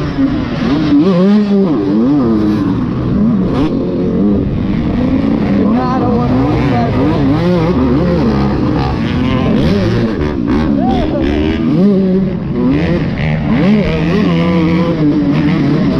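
Dirt bike engine being ridden hard, its pitch rising and falling every second or so as the throttle is worked and the rider shifts.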